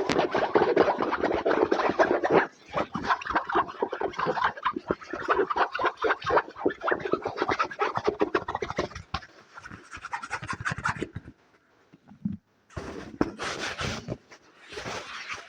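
Fast ASMR scratching and tapping on an object in a dense run of rapid strokes. It stops briefly about eleven seconds in, then starts again.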